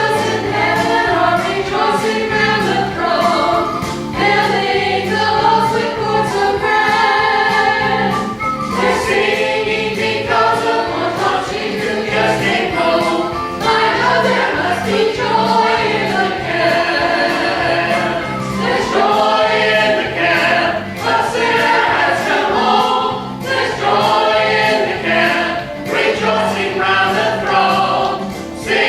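Gospel song sung by a small group of singers in a church service, with piano accompaniment and short breaths between phrases.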